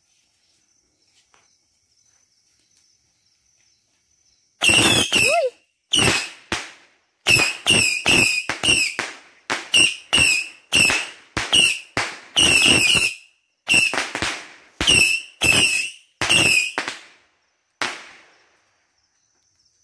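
A multi-shot firework going off in a rapid series of about two dozen sharp bangs, roughly two a second, each trailing a short crackling hiss, with a brief whistle at the first shot. The volley starts about four and a half seconds in and stops a couple of seconds before the end.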